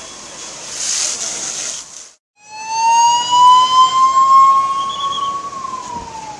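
A rushing hiss cuts off abruptly about two seconds in. Then an emergency vehicle's siren starts up loud, a slow wail that rises gently and falls away near the end.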